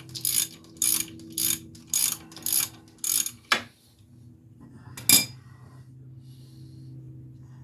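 Hand ratchet clicking in repeated strokes, about two a second, backing out the wheel hub bearing's mounting bolts. The strokes stop a little over three seconds in, followed by a single loud knock about five seconds in.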